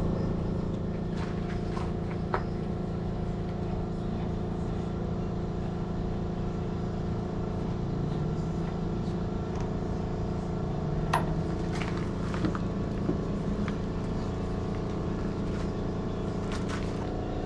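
An engine running steadily at an even speed, with a few short sharp clinks over it.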